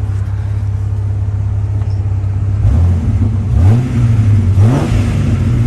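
Jeep Grand Cherokee WJ's 4.0-litre straight-six engine idling steadily, then revved up twice in quick succession and settling back: a freshly rebuilt engine running smoothly, called "perfect".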